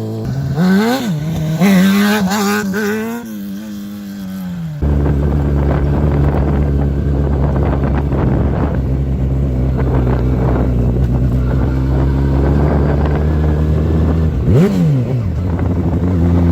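Sport motorcycle engine revving up and down for the first few seconds, then abruptly settling into a steady drone. A short rev blip comes near the end.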